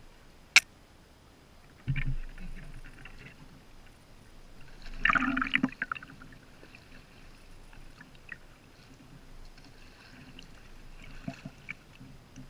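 Kayak paddle strokes in the water: a few irregular dips and splashes, the biggest about five seconds in, over a low lapping of water. A sharp click comes about half a second in.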